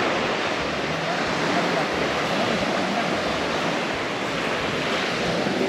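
Steady sea surf washing onto a beach, with faint voices in the background.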